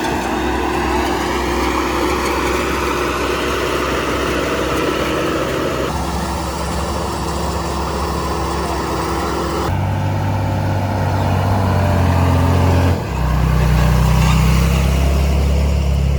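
Diesel engines of heavy earthmoving machinery running. The engine note changes abruptly three times, about six, ten and thirteen seconds in, as if different machines or takes follow one another.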